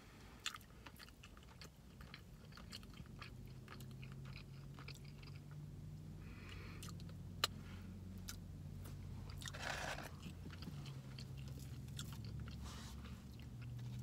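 Close mouth sounds of a person chewing fried chicken and bread: soft wet smacks and clicks, with one sharper click about seven seconds in.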